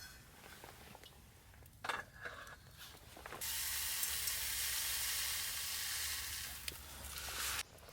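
Food sizzling in a hot pan: a loud, steady sizzle of about four seconds that cuts in and out abruptly, after a brief clatter and a few clicks about two seconds in.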